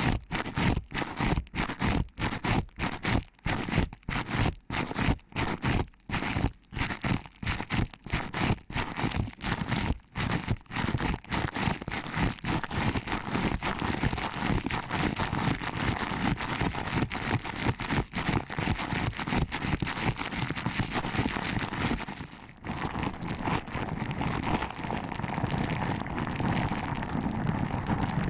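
Hands pinching and rubbing a binaural microphone's ears: crackling, rustling strokes, several a second at first, then running together into a continuous rustle, with a brief break a little past two-thirds in.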